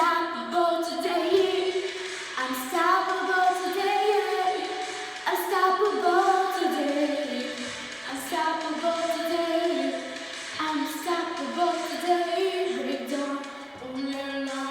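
A girl singing a melody in drawn-out phrases over backing music.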